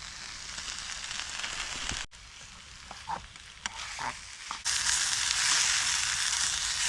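Chicken sizzling in a pan on a camp stove, a steady hiss. It breaks off abruptly about two seconds in and returns much louder near the end.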